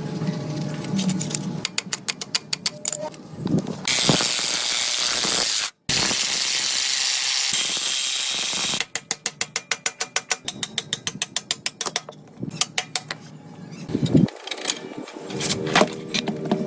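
Hand ratchet wrench clicking in quick, even runs, as when loosening or running down bolts. Twice in the middle it gives way to several seconds of steady hissing noise.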